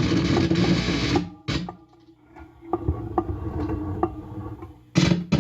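Guitar amplifier buzzing and crackling loudly as the bare plug of a guitar cord is touched, a humming tone with overtones coming and going in bursts: loud for about the first second, quieter crackles in the middle, loud again near the end. The owner takes the noise for radiation hitting his house.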